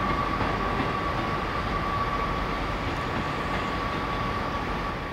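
Northern class 158 diesel multiple unit departing: a steady rumble of the moving train with a thin, high steady whine that fades out near the end.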